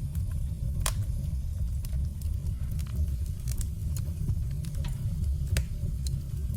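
Wood fire burning: a steady low rumble of the flames with scattered sharp crackles and pops from the logs, the loudest pop about a second in and another near the end.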